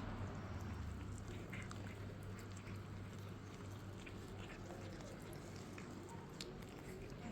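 Cats chewing roast chicken, with scattered small wet clicks and smacks over a low steady hum.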